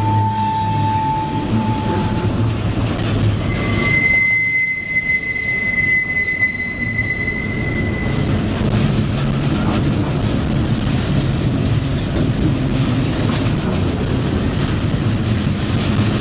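Empty freight cars of a Norfolk Southern train rolling past with a steady rumble and clatter of wheels on rail. A brief high squeal comes near the start, and a longer, higher wheel squeal runs from about four to eight seconds in.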